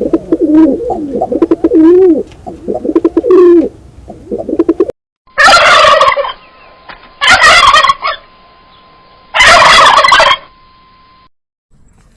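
Farm birds calling in a run of warbling, pitch-bending calls, then after a short break three loud animal calls, each about a second long and about two seconds apart.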